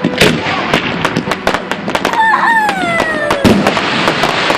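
Fireworks display: rapid bangs and crackles, with a whistle falling in pitch for about a second from around two seconds in. A loud bang follows at about three and a half seconds, then dense crackling.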